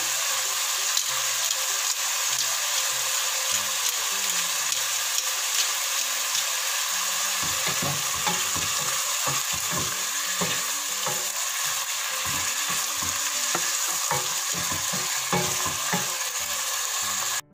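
Diced chicken breast and garlic sizzling in hot oil in a nonstick pot, a steady hiss. From about halfway through, a wooden spoon stirs the pieces, adding repeated scrapes and knocks against the pot.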